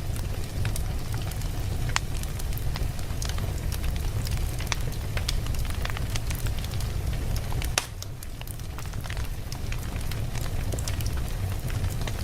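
Wood fire burning in a fireplace: a steady low rumble of flame with frequent, irregular sharp crackles and pops from the burning logs, briefly quieter about eight seconds in.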